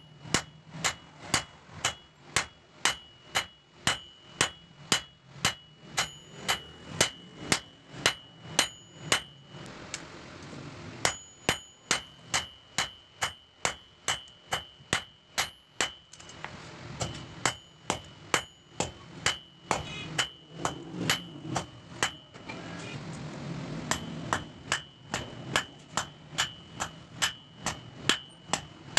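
Blacksmith's hammer striking steel on an anvil, about two blows a second, each with a bright ring, in runs broken by three short pauses: forging a knife from a steel bearing.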